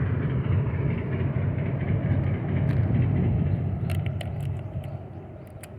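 Suzuki GT380's air-cooled three-cylinder two-stroke engine running, a steady low rumble that fades away over the last second or so.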